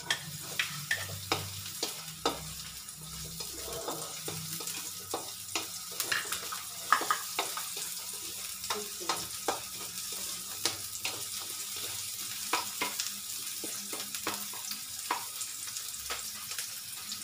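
Chopped onion and garlic sizzling as they are sautéed in hot oil in a metal wok, stirred with a spatula, with frequent sharp clicks over a steady hiss.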